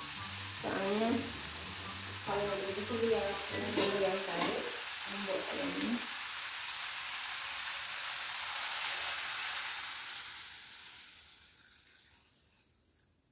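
Chicken pieces frying in spice paste in a wok, sizzling steadily while a metal spatula stirs and scrapes through them for the first few seconds. The sizzling then carries on alone and dies away near the end.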